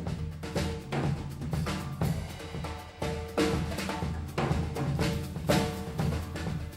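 Drums played in a dense, steady rhythm, with many sharp strikes over a continuous low boom and a ringing tone that comes and goes.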